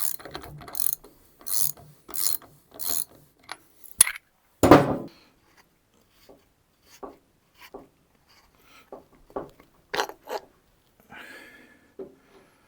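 Hand socket ratchet clicking in quick repeated strokes as it undoes the top nut of a Suzuki GSX-R 750 front fork, followed by one loud knock about four and a half seconds in and scattered lighter clicks and tool knocks.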